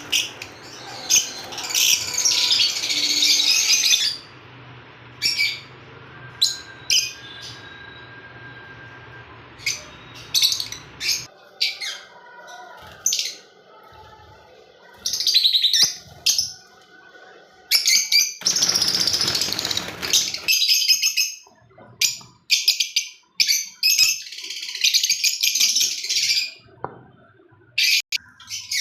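Lovebirds chattering in shrill, rapid bursts of high-pitched chirps, several clusters one after another, with a brief loud rustling burst about two-thirds of the way through.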